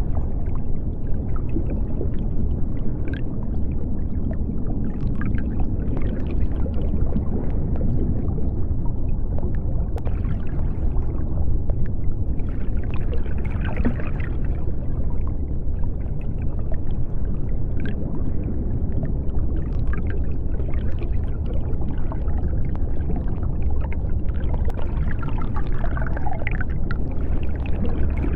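Underwater sea ambience: a steady deep rumble with brighter water noise that swells and fades every several seconds, and faint short clicks here and there.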